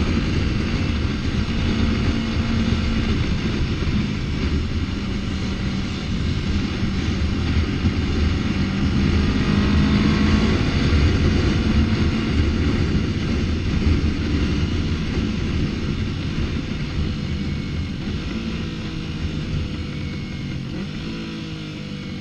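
Yamaha MT-03 motorcycle engine running under way over a dense low rumble, its pitch shifting up and down with the throttle, with a few gliding pitch changes near the end.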